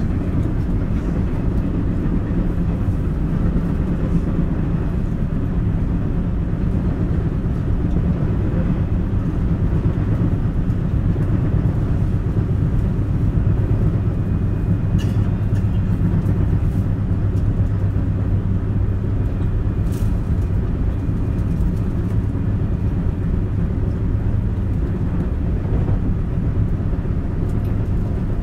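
JR West 223 series electric train running at speed, heard from inside the KuMoHa motor car: a steady rumble of steel wheels on rail with a rapid repeating thump from a flat spot on a wheel. Two sharp ticks stand out around the middle.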